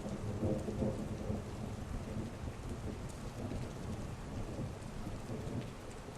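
Heavy rain falling steadily with low rolling thunder rumbling underneath, swelling about half a second in and fading back within a couple of seconds.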